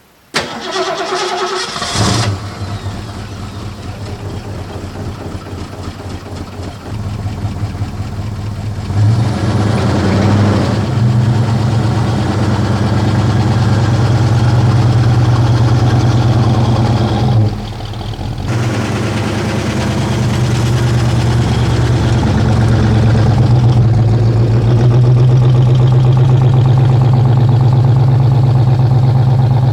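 1967 Ford Mustang's engine cranked over by the starter, catching after about two seconds, then idling with a brief rise in revs about nine seconds in before running steadily.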